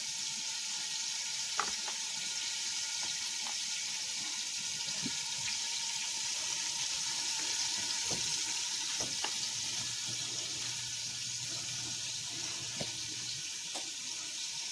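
Flour-dredged chicken liver frying in olive oil in a pan: a steady sizzle with scattered small pops and crackles.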